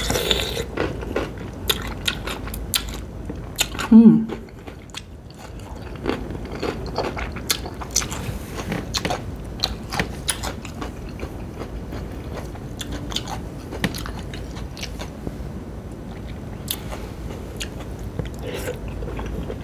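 Close-miked eating: biting and crunching a sauce-dipped cucumber slice, then wet chewing and lip smacks with many small crackly clicks. About four seconds in comes a short hum of the voice, falling in pitch, the loudest sound.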